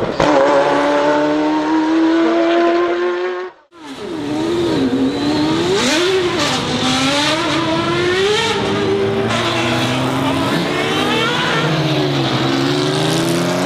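Ferrari F40 LM's twin-turbocharged V8 accelerating hard, its pitch climbing steadily for about three and a half seconds before the sound breaks off abruptly. It then comes back with the revs rising and falling several times, as through gear changes.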